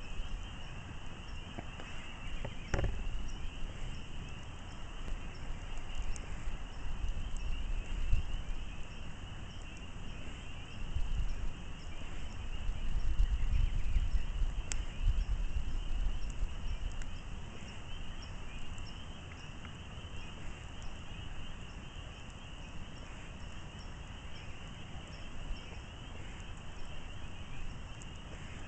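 Campfire crackling with scattered sharp pops, over a steady high chirring chorus of night insects. A low rumble swells in the middle and then eases off.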